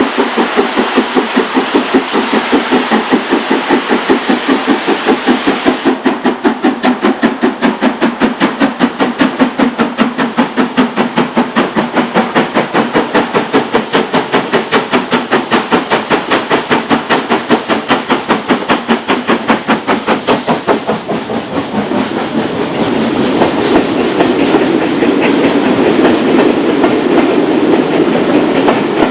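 Preserved steam locomotive working hard up a steep gradient, its exhaust beating in a fast, even rhythm. Later the beats give way to a steadier, louder rumble of the train running past.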